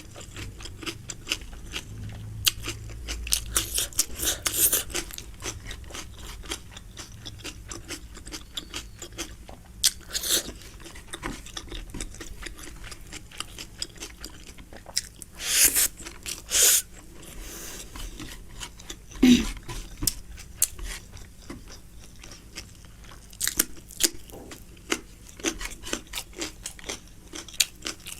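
Close-miked chewing and crunching of food, with many short mouth clicks and two louder smacks about midway.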